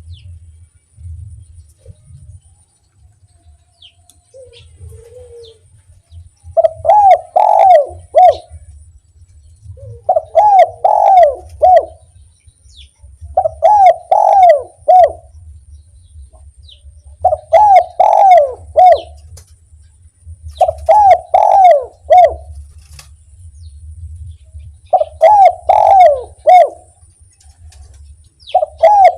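Spotted dove (derkuku) cooing: a few soft notes, then seven loud multi-note coo phrases repeated every three to four seconds from about six seconds in, the "kuk 1" song type. A faint low hum runs under it.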